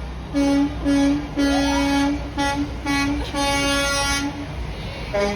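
Truck horn honking in a string of short and long blasts, about seven in all, then a lower-pitched horn starting near the end.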